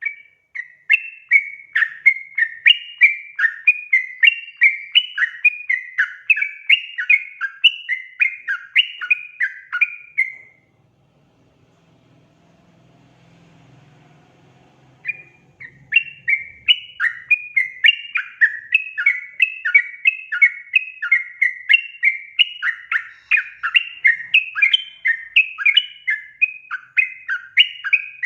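Yellow-vented bulbul (trucukan) song: a fast run of bubbly, chattering notes with a loud note about twice a second. It breaks off about ten seconds in for a few seconds, then starts again.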